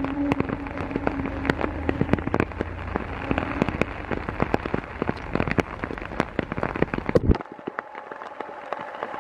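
Heavy rain pouring down, a dense hiss full of sharp ticks from drops striking close by. A low rumble underneath stops abruptly about seven seconds in.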